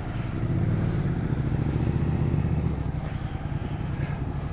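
Ducati Multistrada 1200S V-twin engine running steadily at low revs. The low engine note eases off slightly after about two and a half seconds.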